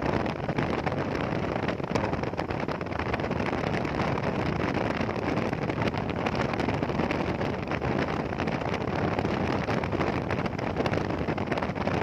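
Steady rush of wind on the microphone mixed with road and engine noise from a motorcycle riding at speed.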